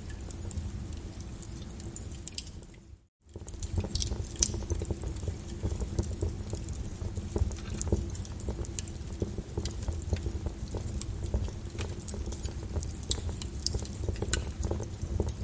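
Wood fire in a fireplace crackling, with irregular sharp pops over a steady low rumble. About three seconds in, the sound fades and cuts out for a moment, then comes back.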